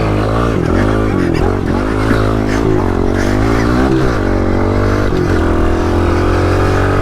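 Mini bike engine revving hard at full throttle, its pitch rising and dipping several times, then held steady at high revs for the last couple of seconds.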